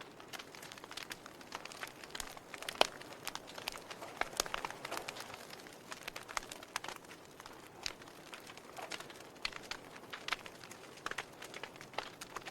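Wood fire crackling, with irregular sharp pops and snaps over a soft steady hiss; one louder pop about three seconds in.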